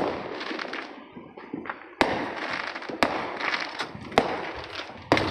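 Fireworks going off: five sharp bangs, roughly a second apart, with firecracker crackling between them.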